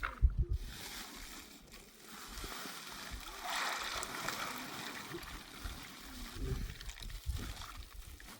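Water splashing and trickling, swelling for a couple of seconds partway through, with low thumps and rumbles at times.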